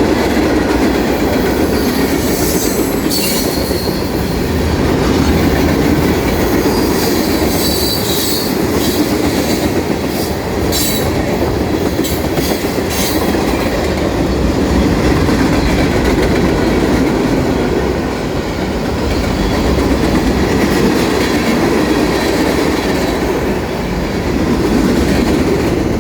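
Norfolk Southern freight train rolling past, a steady rumble with wheels clacking over rail joints. Short bursts of high-pitched wheel squeal come several times in the first half.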